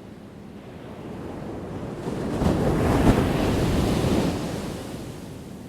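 An ocean wave breaking on the shore: the surf builds about two seconds in, crashes loudest around the middle, then washes out and fades.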